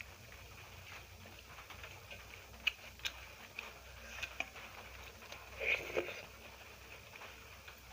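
A person eating close to the microphone: chewing and mouth sounds, with a few sharp clicks and one fuller, louder mouthful sound about three-quarters of the way through.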